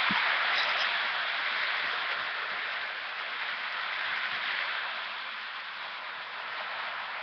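Lionel #8403 Chessie System model steam locomotive running on its track: a steady rushing whir that swells and fades a little as the train moves around the layout.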